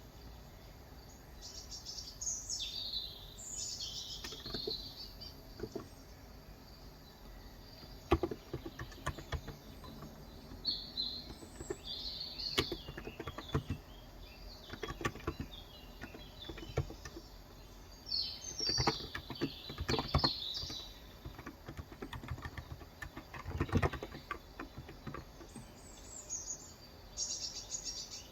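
Typing on a Cox Endeavor electrostatic capacitive (Topre-style) tenkeyless keyboard with light 35 g switches: short runs of keystrokes that start about eight seconds in and come and go until near the end. Small birds chirp in the background several times, at the start, in the middle and near the end.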